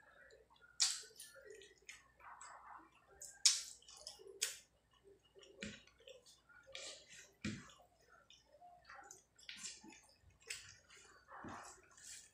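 Close-up wet eating sounds: irregular lip smacks and chewing of rice and curry eaten by hand, with fingers mixing the rice on the plate.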